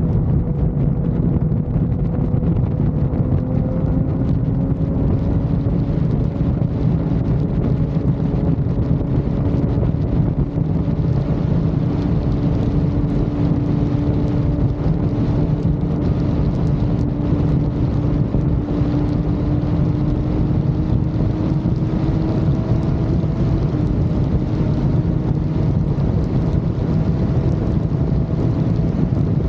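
Motorcycle at highway speed: heavy wind rushing over the microphone, with a steady engine hum that rises slowly in pitch.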